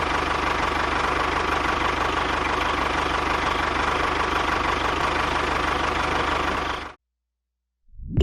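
A small engine running steadily with a rattling, knocking texture, then cutting off abruptly about seven seconds in.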